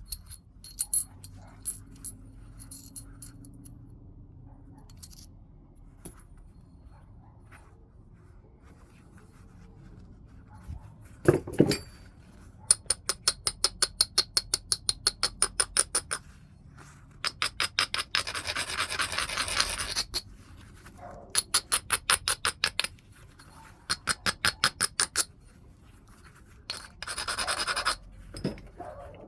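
Stone being scraped along the edge of a heat-treated Burlington chert preform in runs of quick strokes, about seven a second, with two longer continuous rubs. This is the edge abrading a flintknapper does to prepare platforms. About eleven seconds in there is a single sharp knock.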